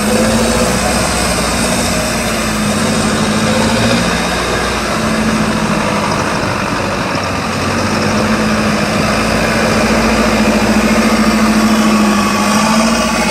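Truck engine running at fairly steady, moderate revs, its pitch dipping and picking up again a few times.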